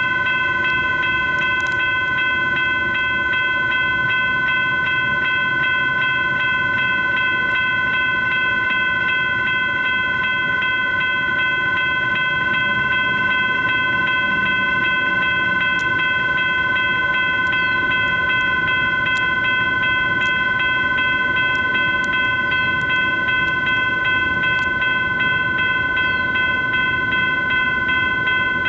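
US&S electronic crossing bell (E-Bell) on a railroad crossing signal, ringing steadily with rapid repeated strikes: the crossing is activated for a train. A low rumble runs underneath.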